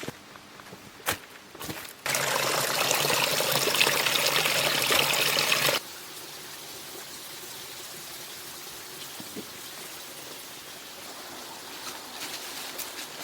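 Water pouring steadily for about four seconds, starting and stopping abruptly, after a few light clicks of handling; a quieter steady hiss follows.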